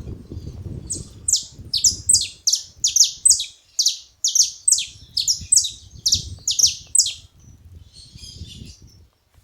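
Saffron finch calling: a rapid series of sharp, downward-sweeping notes, about three a second for some six seconds, followed by faint twittering.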